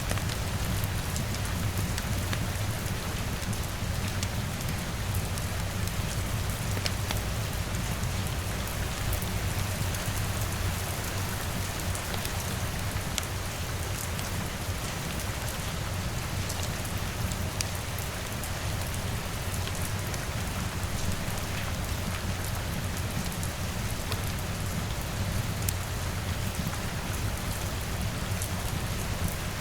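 Steady rain ambience, an even hiss with a low rumble underneath and scattered small sharp ticks of drops.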